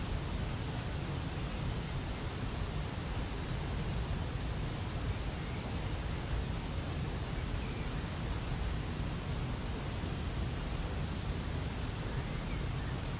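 Steady rushing of a waterfall, with a small bird giving short, faint, high chirps over it, about two a second in runs.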